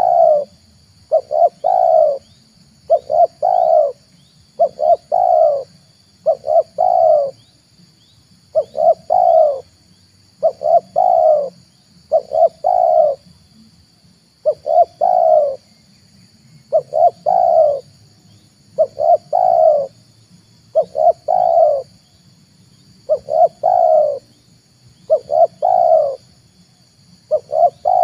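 Spotted dove cooing over and over, each phrase two short notes followed by a longer one, about one phrase every two seconds.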